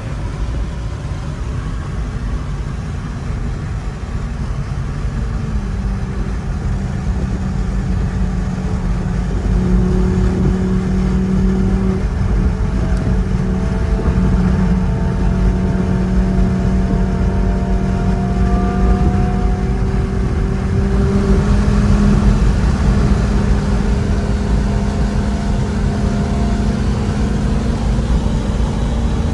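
Straight-piped Audi R8 V10 cruising, its exhaust drone holding a steady pitch that steps up slightly a few times, over road noise.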